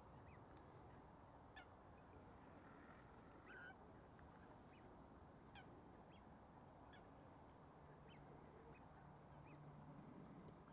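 Near silence: faint open-air ambience with scattered, faint, short bird calls.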